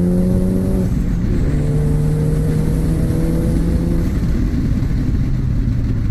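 Mini John Cooper Works' turbocharged four-cylinder engine and modified exhaust pulling hard under acceleration. The revs climb, and the gear changes fall about a second in and again about four seconds in.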